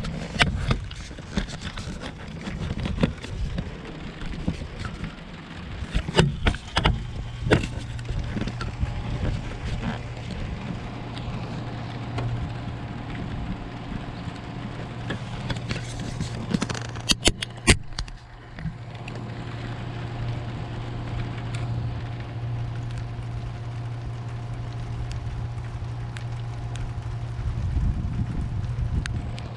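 Rain falling in a thunderstorm, with sharp drops or drips striking close by. A steady low hum joins in about seven seconds in.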